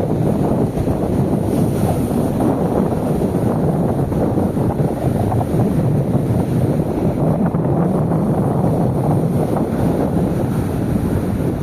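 Wind buffeting the microphone, a steady low rumble over the wash of sea waves on the shore.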